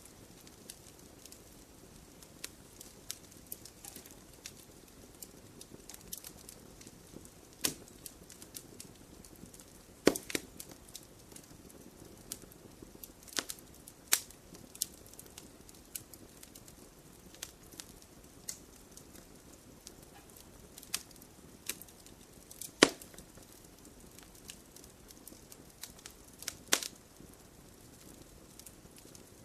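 Campfire of burning wood crackling, with a steady low hiss of flames and irregular sharp pops and snaps, a few of them louder.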